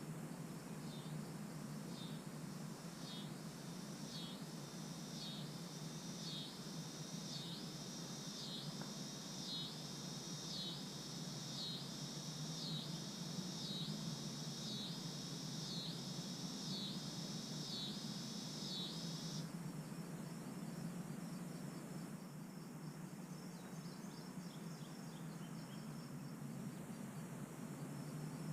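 Summer insects singing: a high pulsing song, about one swelling pulse a second, that stops abruptly about two-thirds through, leaving a steady high trill. A steady low hum runs underneath.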